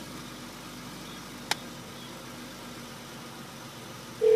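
Car engine idling, a steady low hum heard inside the cabin, with one sharp click about a third of the way in. A loud, steady electronic beep starts right at the end.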